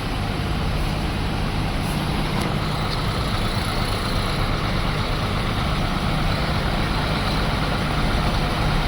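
Vehicle engine idling steadily with a constant low hum, in stalled traffic.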